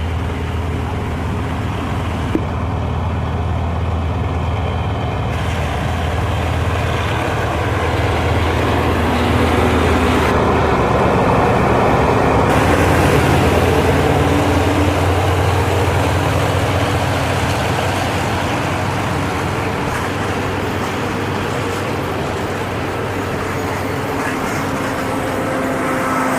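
GE diesel-electric locomotive (SRT GEA 4524) running as it hauls a train out of the station, with a steady low engine hum. It grows louder about halfway through as the engine works harder, then eases slightly.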